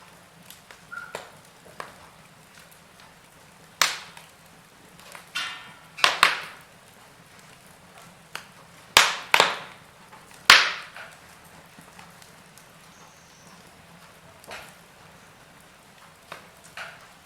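Wood fire burning in a fireplace: irregular crackles and sharp pops from the burning logs over a faint steady hiss, with the loudest snaps about four, six, nine and ten seconds in.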